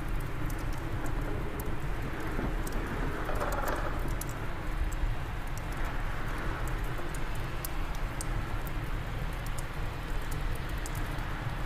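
Wind blowing steadily with a low rumble, over a fireplace fire crackling with irregular sharp pops.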